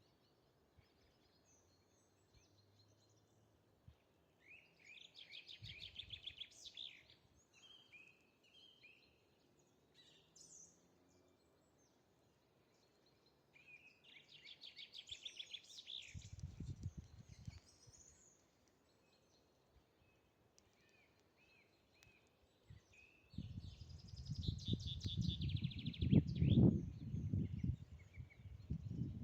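A songbird repeating the same short, rapid trilled phrase three times, about ten seconds apart. A low rumble sets in during the last few seconds and is the loudest thing heard.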